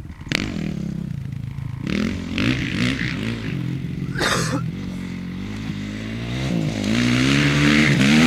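Honda CRF450 dirt bike's single-cylinder four-stroke engine being ridden, its revs rising and falling repeatedly and growing louder near the end. A sharp click comes right at the start, and a short scraping rattle about four seconds in.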